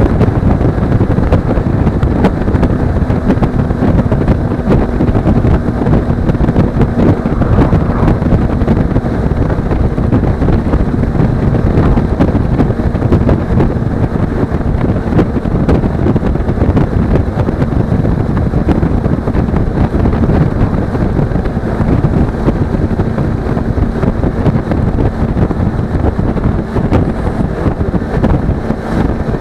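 Heavy wind buffeting on an action-camera microphone over the steady drone of a Suzuki V-Strom 250's parallel-twin engine cruising at road speed.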